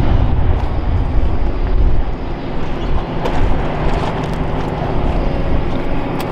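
Heavy demolition machinery working: a steady low engine drone with rumbling, and a few sharp clicks.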